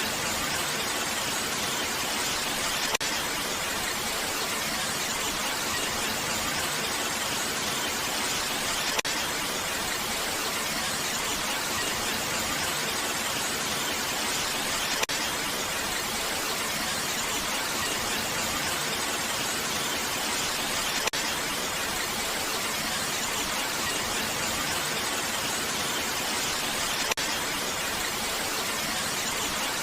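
Steady rain: an even, continuous hiss with no pauses, with a faint tick about every six seconds.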